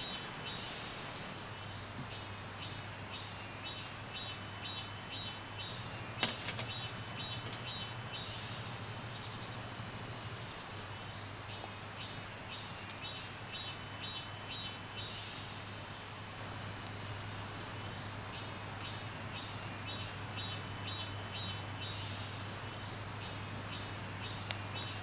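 Creekside outdoor ambience: a steady wash of running water under repeated bouts of rapid high chirping, each bout a few seconds long. A steady low hum runs underneath, and there is one sharp click about six seconds in.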